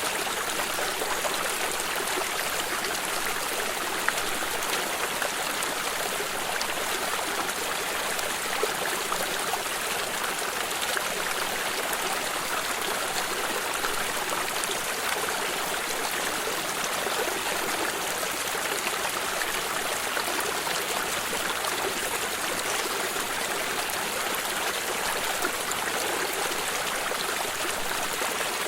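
Small stream flowing steadily, water trickling and splashing over stones with a dense, even rush and small splashes scattered through it.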